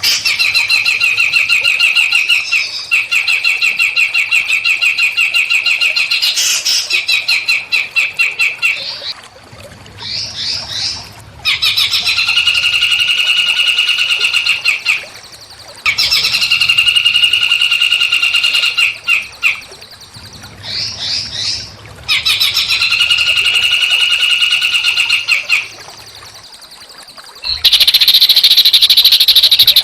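Small songbird singing rapid, buzzy trills, each held for about three seconds and repeated with short breaks between. Near the end comes a louder, harsher burst of song.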